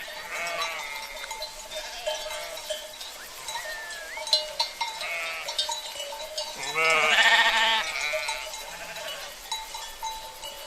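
A flock of sheep bleating, with one long, loud bleat about seven seconds in, over the clinking and ringing of cowbells.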